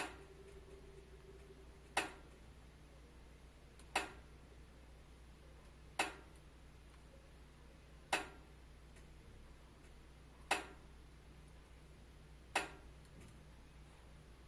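Wood fire crackling in a fireplace: single sharp pops about every two seconds, seven in all, over a low steady hum.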